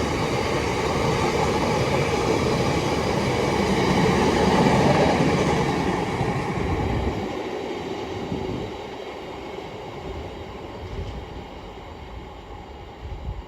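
A train running past on the railway, loud for about the first five seconds, then fading away as it goes.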